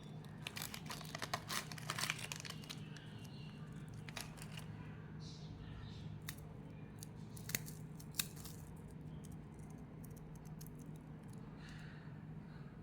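Packaging crinkling and being torn, busiest in the first two seconds, then a few scattered crackles and clicks over a steady low hum.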